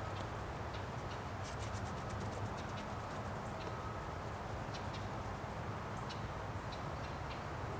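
Small birds chirping, with short high calls and a quick chattering run of ticks, over a steady low background rumble.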